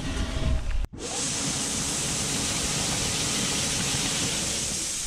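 Grain auger running, carrying shelled corn out of the pit: a steady, even rushing hiss that starts after a brief break about a second in.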